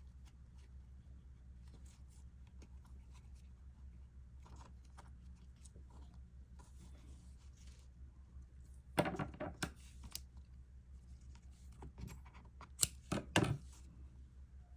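Soft rustling of yarn being handled and tied off, with two clusters of sharp clicks, about nine seconds in and again near thirteen seconds, over a steady low hum.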